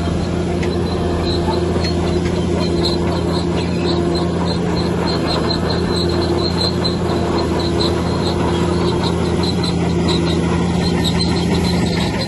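Bulldozer's heavy diesel engine running at a steady pitch. Over it come rapid, regular high-pitched squeaks, about two or three a second, typical of crawler tracks squealing as the dozer moves.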